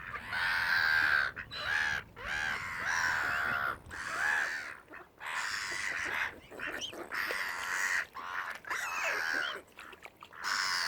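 A flock of waterbirds calling: many short calls overlapping one another, with brief pauses between bursts.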